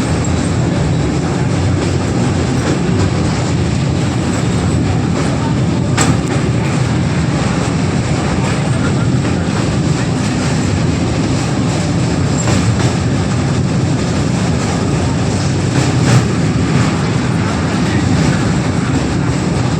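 Train running over a railway bridge: a steady, loud rumble of wheels on the rails, with one sharp click about six seconds in.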